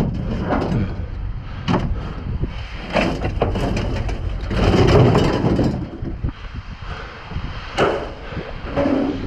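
Scrap metal clanking and scraping as pieces are shifted and pulled out of a dumpster: a run of irregular sharp knocks and clatters. A low wind rumble on the microphone lies underneath.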